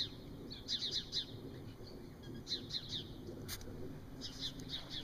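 A small bird calling in quick runs of four or five high, falling chirps, a run about every two seconds, with one sharp click about three and a half seconds in.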